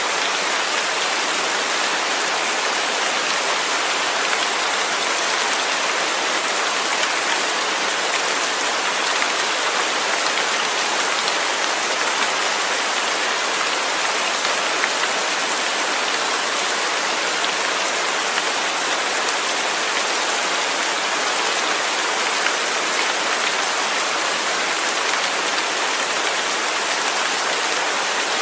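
Steady rain falling, an even hiss of drops on a surface with no pauses or changes.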